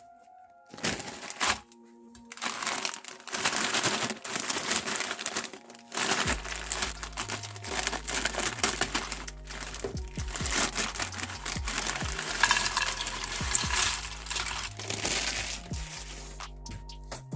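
Crunchy chips crackling and crunching as they are crushed in a meat grinder, in uneven bursts. Background music with a low bass line comes in about six seconds in.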